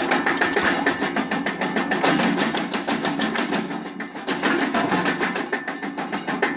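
Wood chipper running with a fast, steady clatter, easing briefly about four seconds in.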